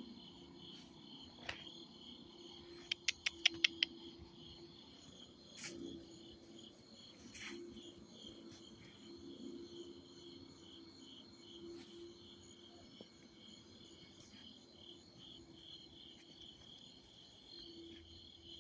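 Crickets chirping steadily in a pulsing chorus at night, over a faint low whirring drone off in the distance that swells and fades. The source of the drone is unidentified. About three seconds in there is a quick run of about six sharp clicks.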